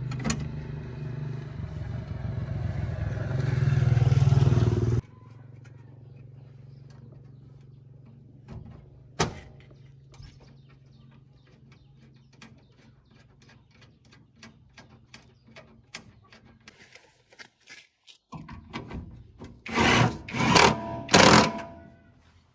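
An engine running and revving up, cut off abruptly about five seconds in; a fainter engine hum goes on for a while after. Near the end come several loud, sharp knocking or scraping bursts.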